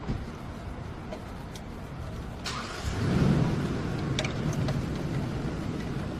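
A car's engine and road rumble, growing louder about three seconds in and staying up, with a few light clicks.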